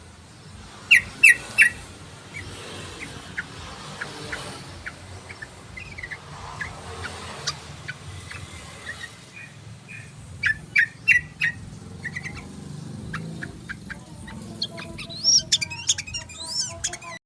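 Yellow-vented bulbul (trucukan) song: a loud burst of three quick notes about a second in and another group around ten seconds in, with softer scattered chirps between and a fast chattering run near the end that cuts off abruptly.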